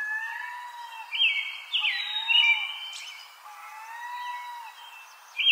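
Birdsong: several birds chirping with clear, overlapping whistled calls, some bending up and down in pitch, like a dawn chorus.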